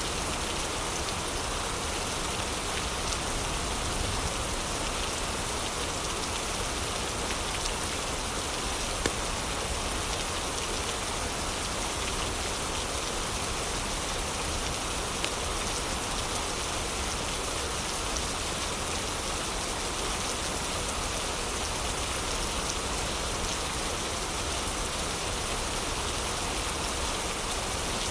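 Steady heavy rain, with a few faint sharp crackles from a wood fire, the loudest about a third of the way in and another about halfway through.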